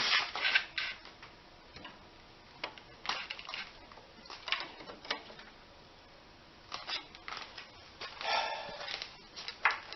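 Scattered metallic clicks and clinks of hand tools and parts, coming in small clusters with pauses between them, with a short scraping rattle about eight seconds in.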